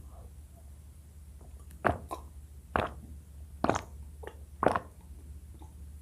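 Close-miked eating mouth sounds: four wet, sudden pops about a second apart, from swallowing or mouthing food.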